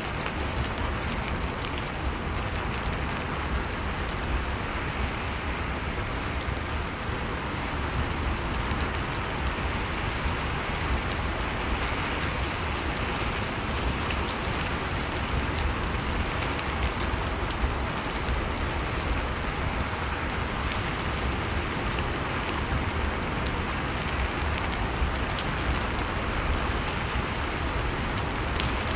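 Steady rain falling, a constant hiss of rainfall with the patter of individual drops hitting a surface.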